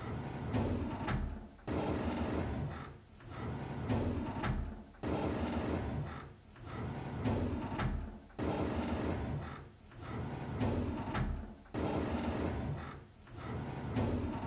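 A drawer sliding open, over and over, about four times in a row. Each slide starts abruptly and fades out over a couple of seconds.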